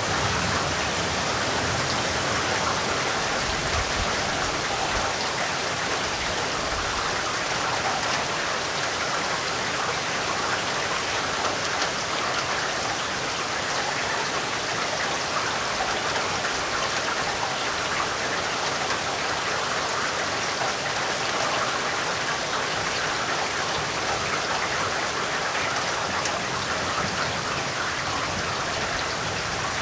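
Steady rainfall, an even hiss with fine patter of drops.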